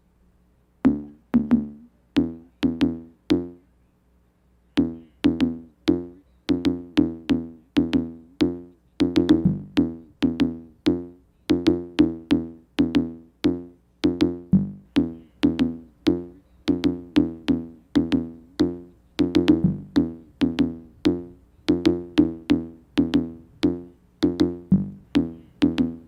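Electronic drum-machine and synthesizer beat: short, plucked-sounding pitched notes with sharp attacks, about two a second. It starts about a second in, breaks off briefly near four seconds, then runs on steadily, a beat that the performer says has got off its timing.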